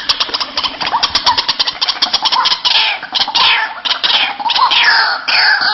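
White-breasted waterhen calling: a fast run of short clipped notes, then repeated harsh calls, each falling in pitch, about two a second.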